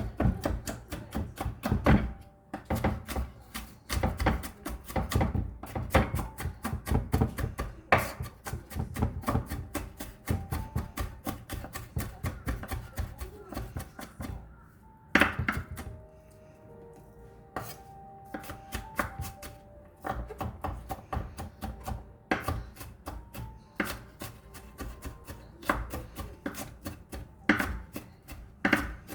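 Kitchen knife rapidly chopping vegetables on a cutting board, mincing them in quick even strokes. The chopping stops for a few seconds about halfway through, then resumes.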